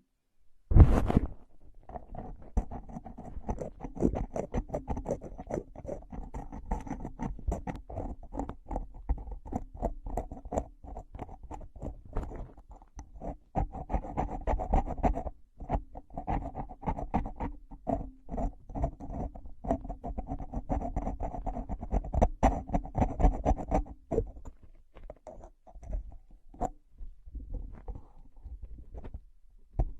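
Close-miked ASMR trigger sounds: rapid, irregular tapping and scratching, with a brief pause about halfway through, thinning out over the last few seconds.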